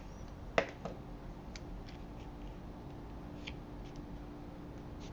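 Small clicks and taps of paper-craft pieces being handled on a desk: one sharp click about half a second in, a softer one just after, then faint scattered ticks.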